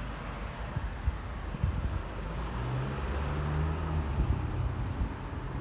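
Street traffic: a car engine running close by, its low note strongest in the middle, over a steady hum of road noise.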